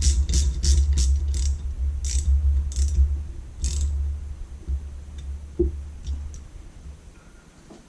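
Quarter-inch drive ratchet clicking while a grease fitting is threaded into a suspension control arm: a quick run of clicks about three a second, then single clicks about two, three and four seconds in. A steady low rumble runs beneath and fades out near the end.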